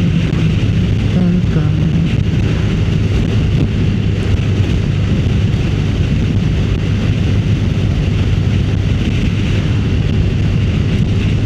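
Motorcycle engine running at a steady pitch, with wind noise on the microphone.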